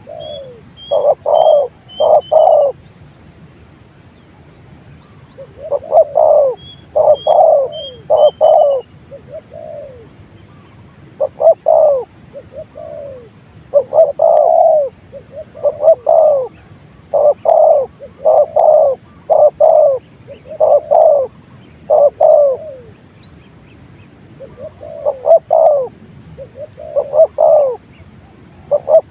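Spotted dove cooing close by, in loud phrases of two to four notes repeated again and again. A steady high whine runs behind it, and twice in the first nine seconds a short run of faint high chirps is heard.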